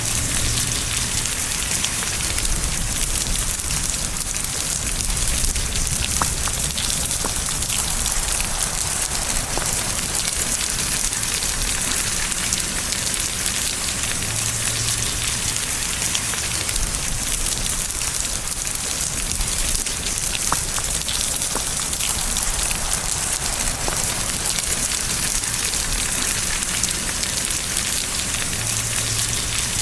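Steady rain falling, a constant hiss with individual drops ticking close by.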